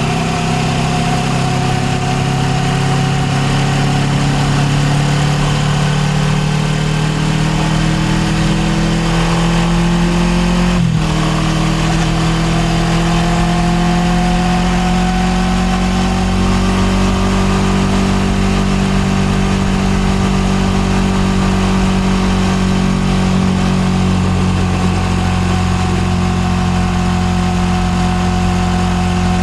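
Suzuki GSX250R's parallel-twin engine running under way, its pitch climbing slowly, dropping sharply once at a gearshift about eleven seconds in, then rising again and holding steady. Wind and road noise run underneath.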